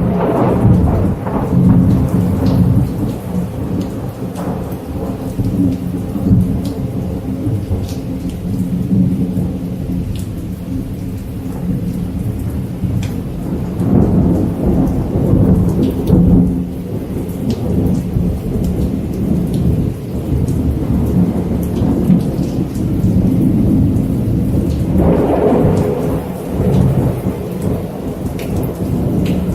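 Rain falling with thunder rumbling low and continuously. The rumble swells louder at the start, about halfway through and again near the end, and scattered raindrop ticks sound over it.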